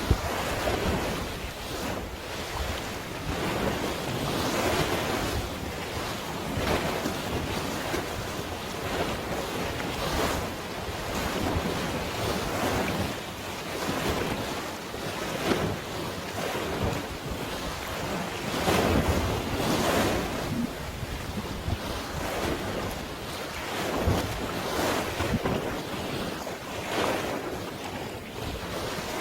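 Sea waves washing in, swelling every second or two, with wind buffeting the microphone.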